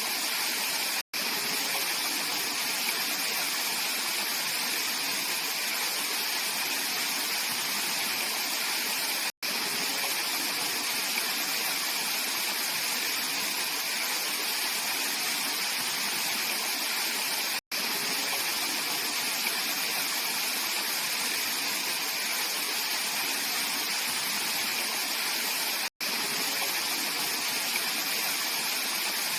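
Mountain valley stream flowing steadily. The sound cuts out for an instant four times, about eight seconds apart.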